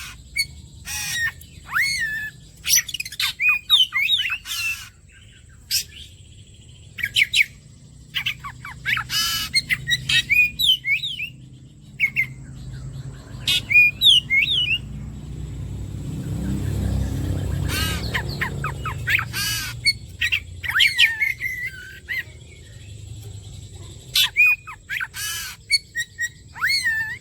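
Oriental magpie-robin singing in quick bursts of sharp, varied whistles mixed with harsh rasping notes, with short pauses between phrases. A low rumble swells and fades midway.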